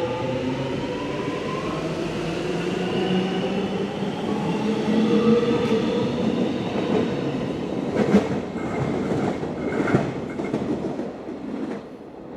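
Passenger train moving off along the platform, with a rising whine as it gathers speed. Wheels clack over rail joints twice in the second half, and the sound drops away near the end as it leaves.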